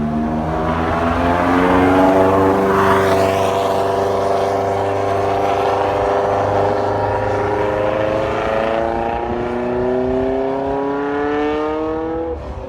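Supercar engine accelerating hard, its pitch climbing steadily over many seconds, with a second engine note rising alongside it in the later part, then cutting off near the end.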